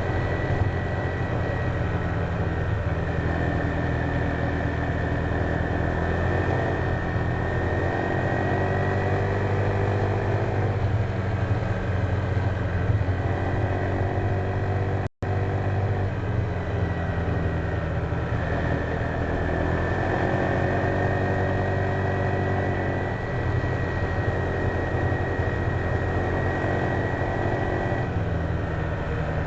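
Honda PCX150 scooter's single-cylinder four-stroke engine running under way, with wind and road noise, its pitch slowly rising and falling as speed changes. The sound cuts out completely for an instant about halfway through.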